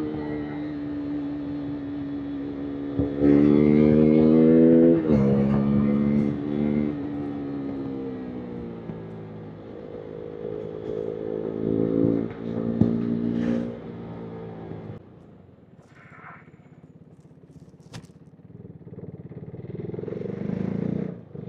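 KTM RC 390 single-cylinder motorcycle engine and exhaust under way: revs climb sharply a few seconds in, then fall away and hold steady. The sound drops to a low, quiet burble about two-thirds through as the throttle closes, then picks up again near the end.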